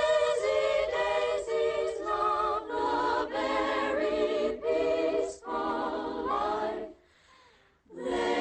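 Background music: a choir singing wordless held chords in short phrases, with a brief pause near the end.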